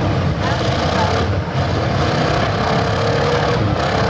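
Engines of several demolition derby cars running together in the arena: a loud, steady mechanical din.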